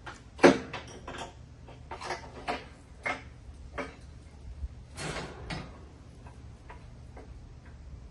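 Irregular metallic knocks and clinks from hand-tool work on a mower deck spindle. The loudest knock comes about half a second in, and fainter ticks follow near the end.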